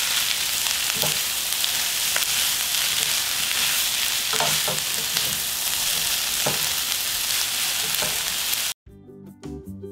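Sweet potato stems, onion and chili sizzling as they are stir-fried in a hot frying pan, with a few light clacks of the chopsticks and spatula against the pan. Near the end the sizzle cuts off and light background music begins.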